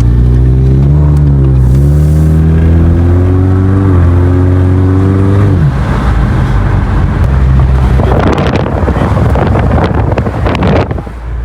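Car engine accelerating hard. The pitch climbs, dips once about two seconds in, and climbs again for about five seconds. Then it gives way to a loud rushing noise that fades near the end.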